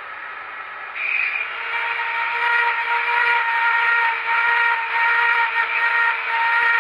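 Clarkson tool and cutter grinder running and grinding a steel T-nut: a steady motor whine under the hiss of the wheel on metal, which grows louder about a second in.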